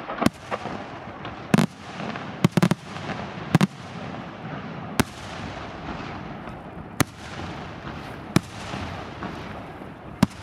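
Aerial firework shells bursting overhead: a string of sharp, loud bangs at irregular intervals, mostly one to two seconds apart and sometimes in quick pairs, over a continuous rolling rumble and hiss of echoes and burning stars.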